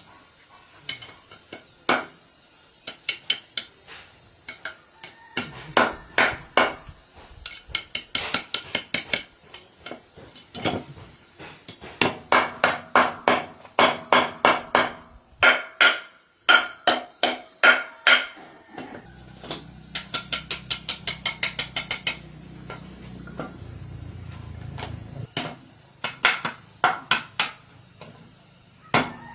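Hammer striking metal in quick runs of blows, several a second, each ringing briefly, with short pauses between the runs.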